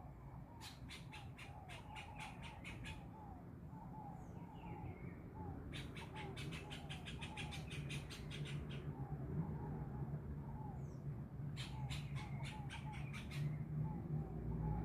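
Animal calls: a short falling call repeats about twice a second throughout. Three bouts of rapid clicking chatter come in between, and a low hum grows louder toward the end.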